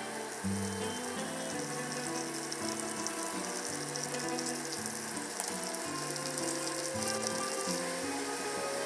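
Lotus root slices sizzling as they fry in shallow oil in a frying pan, a steady hiss, over background music.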